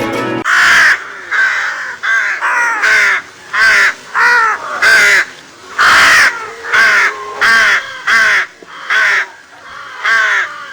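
Crows cawing: more than a dozen harsh caws in irregular succession, about one a second.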